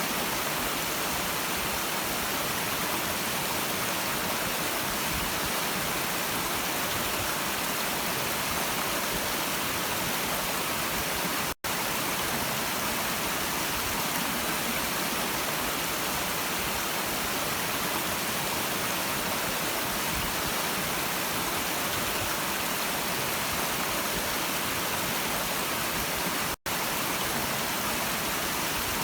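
Stream water running, a steady rushing noise that briefly cuts out twice, about twelve seconds in and near the end.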